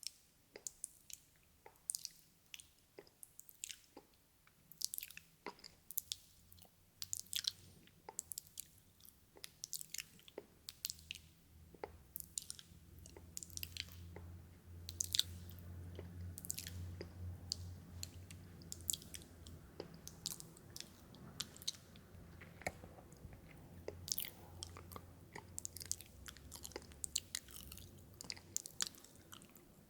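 ASMR mouth sounds made close to the microphone: wet tongue and lip clicks and chewing-like smacks, irregular, several a second. From about twelve seconds in until near the end, a low steady hum sits underneath them.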